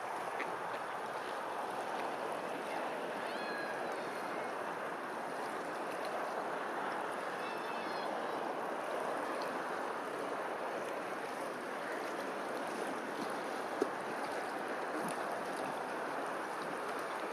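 Steady rush of flowing water, with a few faint short high calls about three and seven seconds in and a single sharp click near the end.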